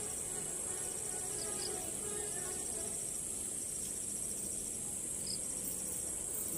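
Steady high-pitched insect chorus, with a second insect's rapid pulsing trill coming and going in short bouts.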